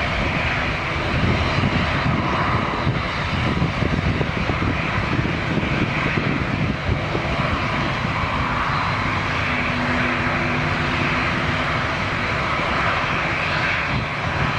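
Airbus A330 jet engines at takeoff thrust: a steady, loud rushing noise with deep rumble, holding level throughout.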